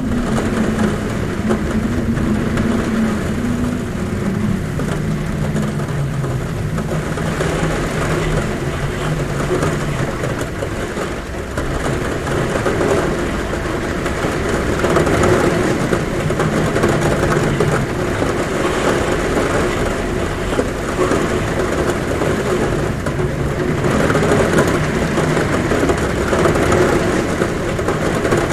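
Heavy rain pouring steadily on a roof, with a low wind drone at the window that wavers in pitch.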